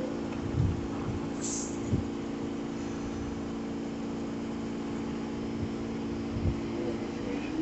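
New York City subway car standing with a steady electric hum after the door-closing chime, with a short hiss of air about a second and a half in and a few dull knocks. Near the end the hum starts to rise in pitch as the train begins to pull away.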